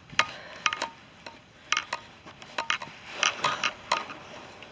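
Walking footsteps on rough ground: irregular sharp clicks and knocks, about two a second, some with a brief ringing note.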